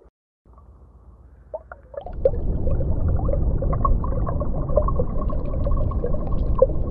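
Underwater ambience: a steady low rumble with many small bubbling, gurgling blips, growing louder about two seconds in.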